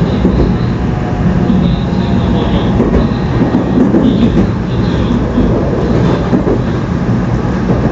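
Tokaido Shinkansen train running steadily, a loud continuous rumble of wheels on rail, with a faint higher hiss coming and going about once a second.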